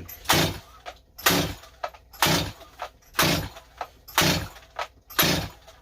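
Stihl 025 chainsaw's recoil starter rope pulled six times, about once a second, each pull a short whirring rasp as the engine is cranked without catching. The engine turns over against high compression from its freshly rebuilt top end.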